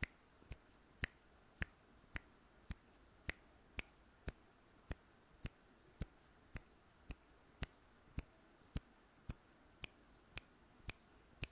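Countdown timer clock ticking steadily, about two ticks a second.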